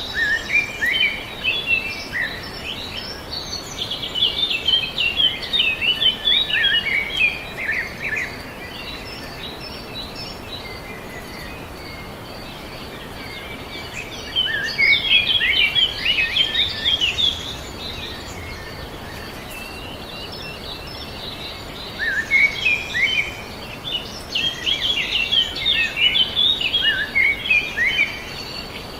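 Songbird singing long phrases of rapid chirping notes, in three bouts with pauses between, over a steady background hiss.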